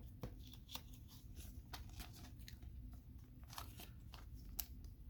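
Faint rustling and light clicks of trading cards being handled, scattered irregularly throughout.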